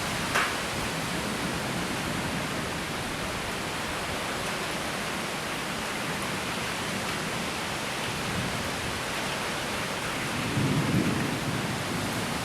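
Steady rushing wind of an approaching severe thunderstorm, with a low rumble near the end.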